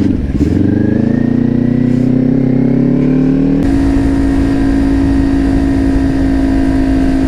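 Kawasaki Ninja 400 parallel-twin engine under way, rising in pitch as the bike accelerates for the first half, then holding a steady note after an abrupt change about halfway through.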